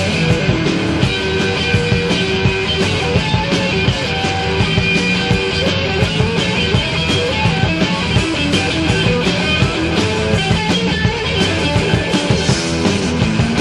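A rock band playing: guitar over a steady, driving drum beat.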